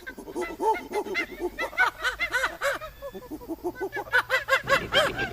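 An animal making a rapid chuckling run of short, arched calls, several a second, which grows denser near the end.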